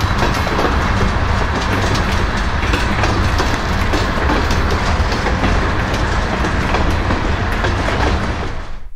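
Freight train of covered hopper cars rolling past close by: a steady din of steel wheels on rail with rapid clicking as they cross the rail joints. It cuts off suddenly near the end.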